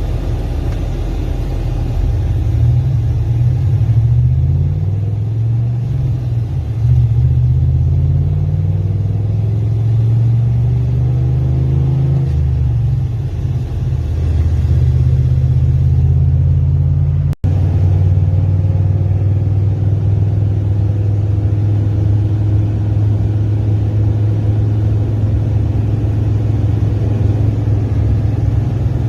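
Tow vehicle's engine running on the road, its note climbing and dropping several times through gear changes as it gets up to speed, then holding a steady drone at cruising speed.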